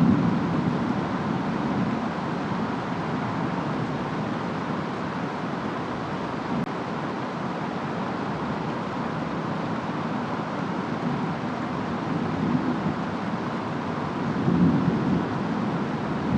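Steady rain and wind of a thunderstorm, with a low rumble of distant thunder that fades away at the start and swells again near the end.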